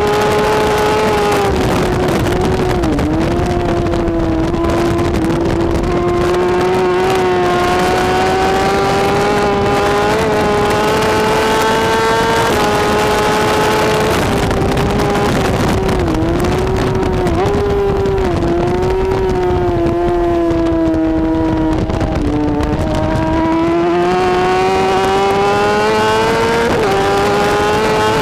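BMW S1000RR superbike's inline-four engine running flat out at high revs, a high-pitched note that climbs slowly through long stretches, with brief dips at gear changes about 3 s in, around 16 to 18 s, and again near 22 and 27 s.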